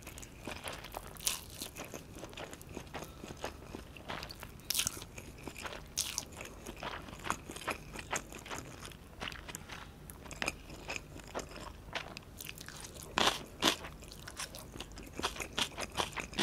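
Close-miked chewing of a mouthful of fried instant noodles (Maggi goreng): irregular wet, crunchy mouth sounds and clicks, with a few sharper ones about 5 seconds and 13 seconds in.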